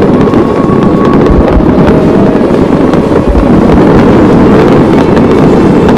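Large fireworks display: a dense, continuous rumble and crackle of many shells launching and bursting, with deep booms now and then.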